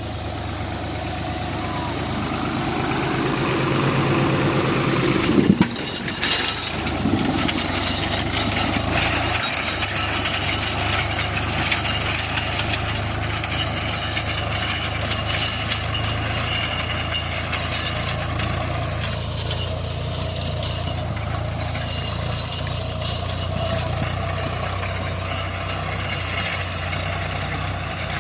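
Tractor engine running steadily while ploughing. It grows louder over the first five seconds, changes abruptly about five and a half seconds in, then runs evenly.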